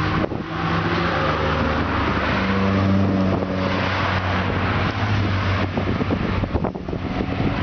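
Car engine and exhaust running loud as a car accelerates past, the engine note strongest about three seconds in and fading after about six seconds.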